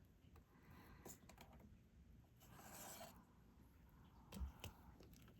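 Faint taps and scratches of a diamond painting pen picking up resin drills and pressing them onto the canvas, with a short scratchy stretch about halfway through.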